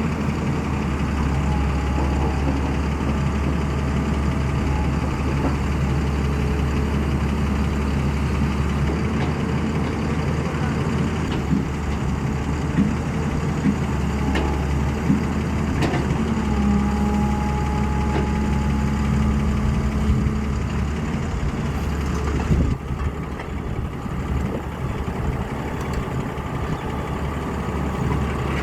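Hyundai excavator's diesel engine running steadily while the machine is loaded onto a truck trailer, with a few metallic clanks midway and a steady whine for a few seconds; near the end the engine sound changes and turns duller.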